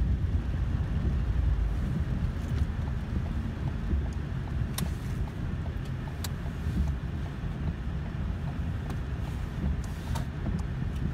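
Car driving in heavy rain, heard from inside: a steady low road and engine rumble under a haze of rain noise, with a few sharp ticks.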